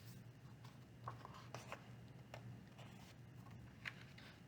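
Near silence: room tone with a low hum and a few faint, short ticks and rustles.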